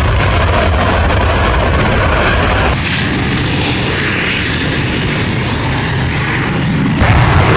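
Loud, steady fighter-jet engine noise, changing abruptly about three seconds in and again near the end.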